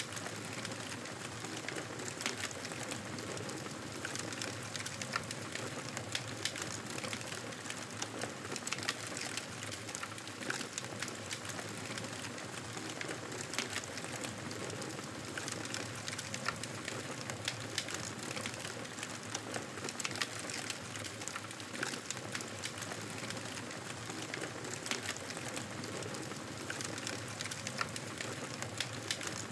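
Campfire burning: a steady hiss with frequent small crackles and pops.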